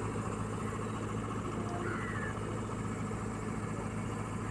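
Heavy diesel machinery engine idling steadily, an even low hum.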